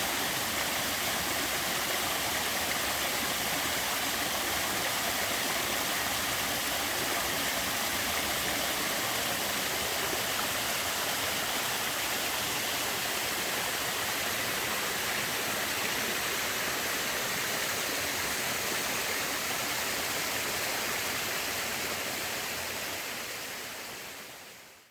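Small waterfall with a fairly light flow, water falling and splashing in a steady, even rush. The sound fades out near the end.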